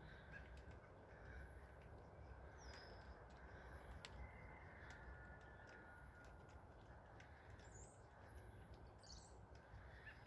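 Faint bird calls: a few short, high chirps scattered through, over a low steady rumble.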